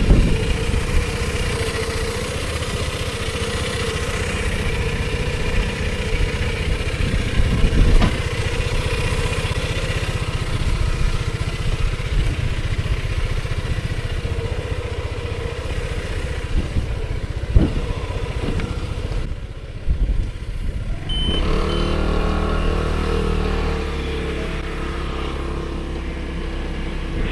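Piaggio MP3 300 three-wheeled scooter's engine running on the move, with road noise and a few knocks. In the last few seconds it settles into a steadier, evenly pitched note.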